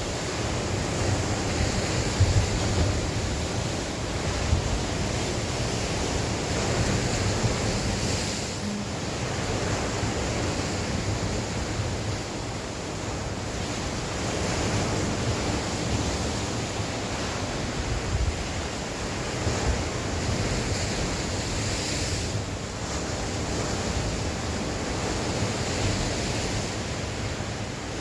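Sea waves breaking and washing on the shore in a steady surge, with wind buffeting the microphone as low rumbling gusts.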